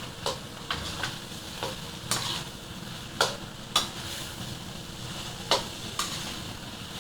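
A spoon stirring and scraping through a sizzling onion-tomato masala in a frying pan, with about nine sharp scrapes and knocks against the pan over a steady sizzle.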